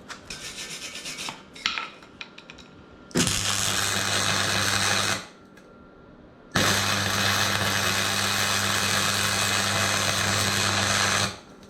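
Cheap gasless (flux-core) wire-feed welder laying weld beads around rail-spike legs on a steel truck brake drum: a stuttering start, then two steady runs of even crackling hiss over the welder's low hum, a shorter one and then a longer one.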